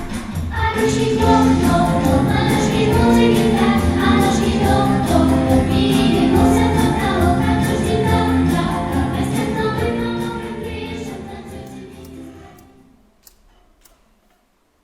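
Live concert music with a choir singing over a steady beat; the song fades out near the end into near silence.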